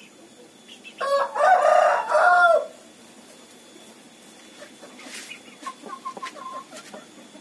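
A rooster crowing once, a loud call of several joined parts lasting under two seconds, followed a few seconds later by fainter short clucking notes.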